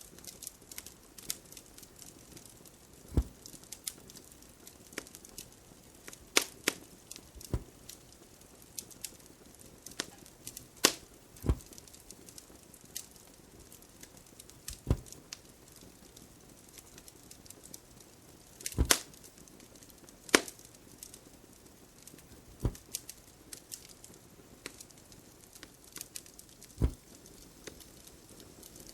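Wood fire crackling: irregular sharp pops and cracks, some with a low thud, over a soft hiss.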